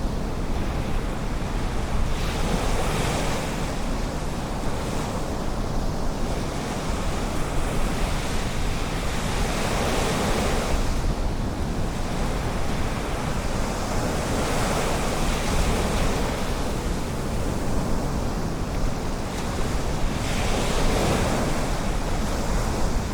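Ocean surf washing on a beach, a steady wash of water that swells as waves break about every six seconds, over a low rumble.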